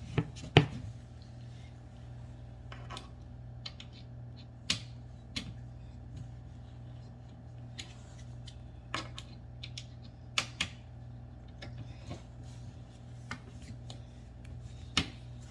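Scattered light clicks and metal taps, a few seconds apart, as furniture bolts are tightened down with a hand tool, over a steady low hum.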